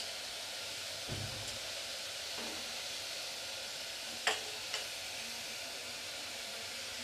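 Chicken pieces and vegetables sizzling steadily in melted butter and oil in an open pressure cooker, with a few short knocks as they are stirred: one about a second in and two around four seconds in.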